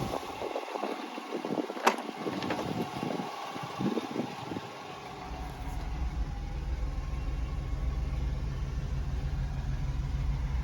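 1991 Honda Acty truck's small three-cylinder engine idling steadily, coming in about halfway through. A few clicks and knocks come before it, the sharpest about two seconds in.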